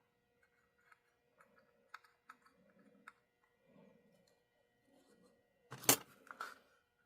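Small clicks, taps and rustles of small parts and tools being handled on a workbench, with one louder sharp knock about six seconds in.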